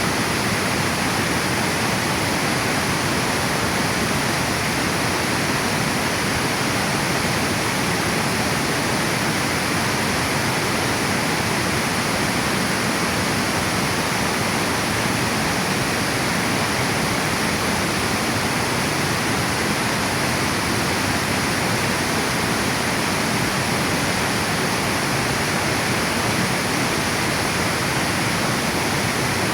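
Water pouring over a river dam as a waterfall: a steady, unbroken rush of falling water.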